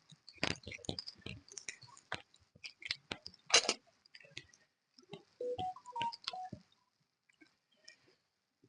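Chewing and crunching of food being eaten: irregular wet smacks and clicks, loudest about three and a half seconds in, with a few short pitched squeaks between five and six and a half seconds in.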